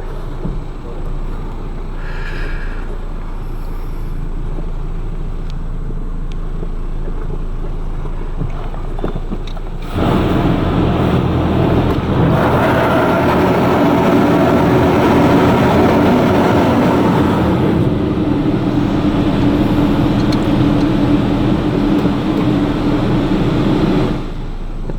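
Pickup truck's engine idling, heard from inside the cab. About ten seconds in, a loud steady rush of high-pressure water spray and pump noise starts suddenly from the car wash's undercarriage jets, then cuts off near the end.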